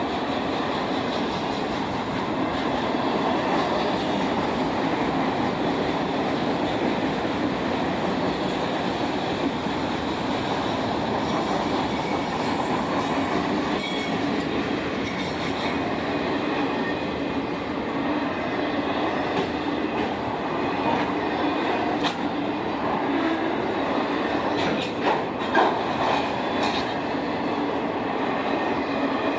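Train rolling past on the track: a steady rumble of railcars, with a few sharp clicks near the end.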